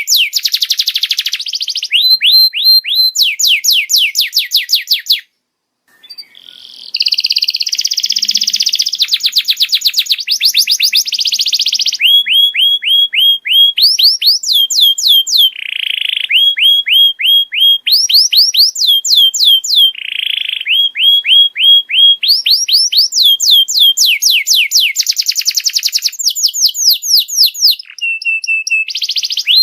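Domestic canary singing in fast rolling trills of repeated down-slurred notes, switching to a new trill every second or two, with a brief pause about five seconds in.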